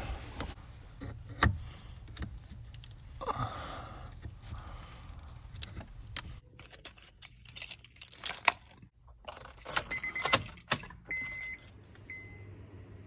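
Keys jangling with clicks and knocks, a rattling clatter in the second half, then three short high beeps near the end over a steady low hum.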